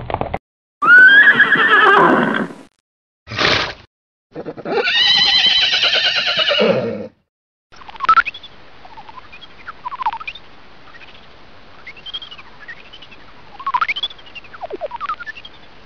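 Horse neighing: a loud whinny falling in pitch, a short snort-like cry, then a longer quavering whinny, each a separate clip cut off by silence. After that, a quieter recording of scattered short high calls that slide sharply up and down in pitch.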